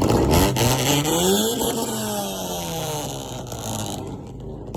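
A car engine revving: its pitch climbs for about a second and a half, then falls slowly as the sound fades away.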